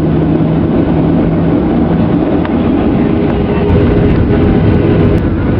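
Boeing 737-800 on its take-off run: a steady, loud rumble of jet engines and rolling airframe, with a steady low engine tone over the first two seconds and a higher steady tone through the middle.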